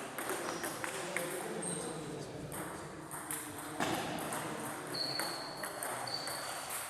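Table tennis ball clicking off paddles and table in a rally, a sharp tick every half second or so, over the murmur of voices in a hall. Two brief high squeaks come about five and six seconds in.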